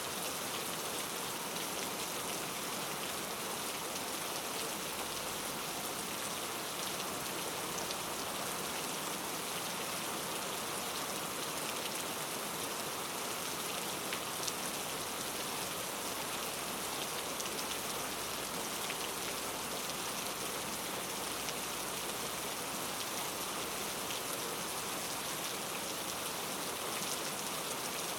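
Steady rain falling, an even hiss of downpour with fine drop ticks throughout.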